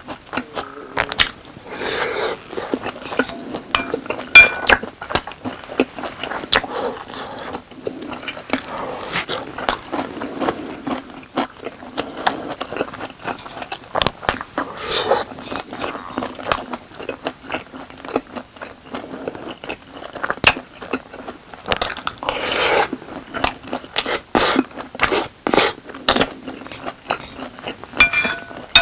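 Close-miked chewing and biting of spicy boneless chicken with rice, with frequent short clicks and crunches.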